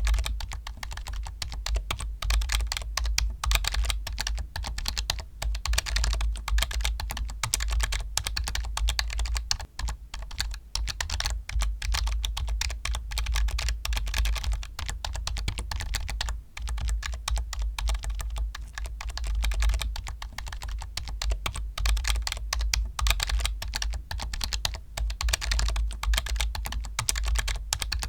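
Fast, continuous typing on a computer keyboard: a dense run of clicking keystrokes, broken by a couple of brief pauses.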